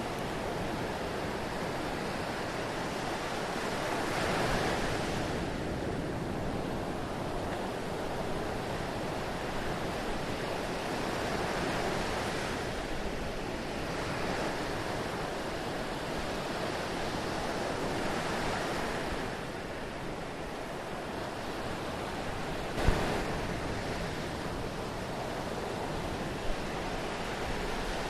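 Steady rush of water, swelling and easing every several seconds. A sharp knock about two-thirds of the way through, and a fainter one near the end.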